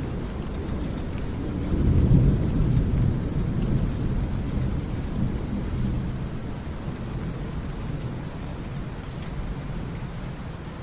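Steady rain with a low rumble of thunder that swells about two seconds in and slowly fades away.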